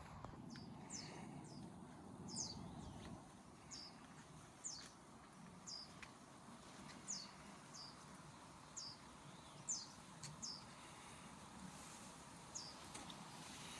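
A bird calling repeatedly in mountain forest, with short high notes sliding down in pitch, about one a second, over a faint steady background hiss.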